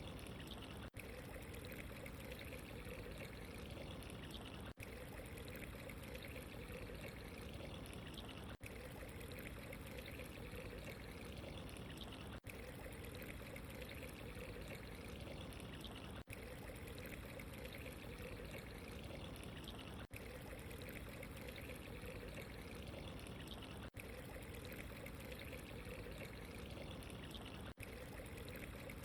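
Steady running, trickling water, with a brief dip in level about every four seconds.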